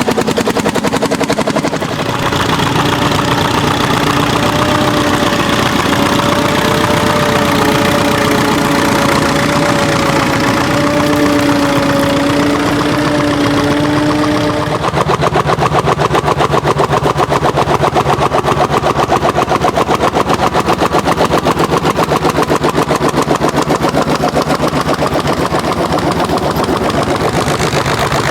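Vintage tractor engine running under load with rapid, even exhaust beats, a steady whine riding over it. About halfway the whine stops and a louder, evenly pulsing tractor engine takes over.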